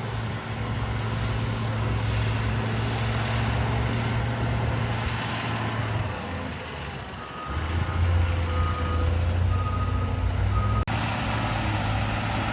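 Motor grader's diesel engine running steadily, easing off about six seconds in, then coming back louder. A reversing alarm beeps about four times as it does.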